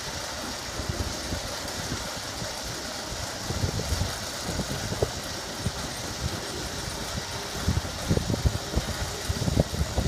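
Boat lift's engine running steadily as it lowers a boat into the water, with irregular low thumps around four seconds in and again from about eight seconds on.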